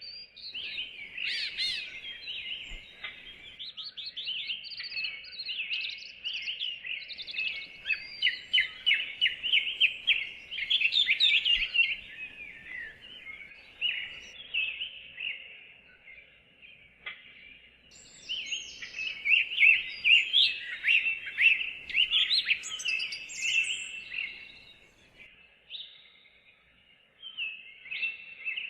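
Songbirds singing, with dense runs of rapid, high chirps and trills that thin out about halfway through and again near the end.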